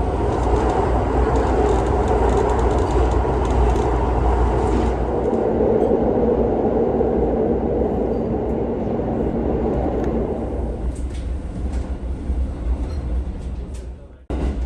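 Setsugekka diesel railcar running along the line: a steady rumble and rolling noise that eases after about ten seconds, breaking off briefly near the end.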